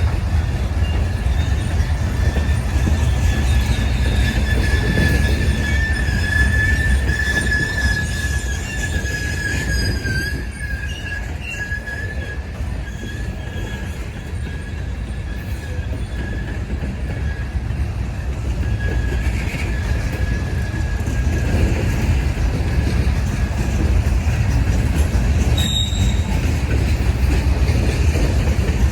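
Slow-moving freight train rolling past with a steady low rumble. A wheel squeals in a thin, steady high tone, loudest for the first ten seconds and then fainter, with one short high squeak near the end.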